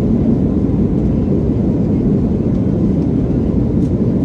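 Steady low rumble of an Embraer E175 regional jet's turbofan engines and airflow, heard from inside the passenger cabin.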